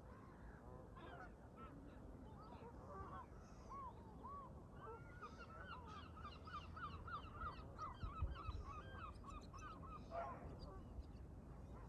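A flock of Canada geese honking: a fast run of short, repeated honks that grows busiest in the second half, heard faintly over low wind rumble. A brief low buffet of wind hits the microphone about eight seconds in.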